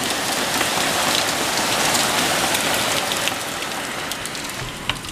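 Heavy rain pouring down onto a screened pool enclosure and patio, a steady hiss. The rain eases slightly towards the end, and there is a sharp knock near the end.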